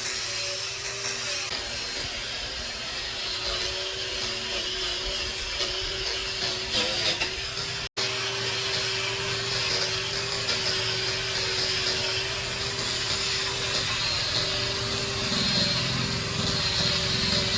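A power tool running with a steady hum and dense noise, broken by a split-second gap about eight seconds in.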